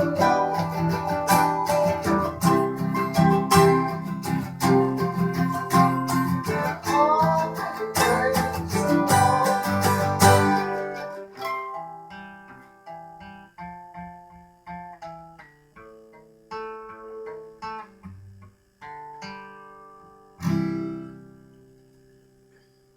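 Guitar playing a song's ending: strummed chords for about the first ten seconds, then slower single notes thinning out, and a last chord about twenty seconds in that rings out and fades away.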